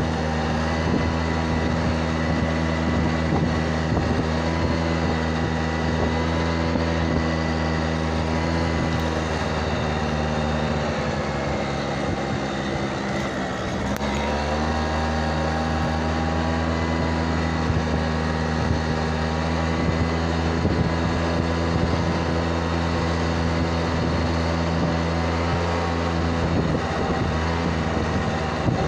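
Small motorbike engine running steadily under way. Its pitch drops about halfway through as it eases off, then rises again as it picks up speed.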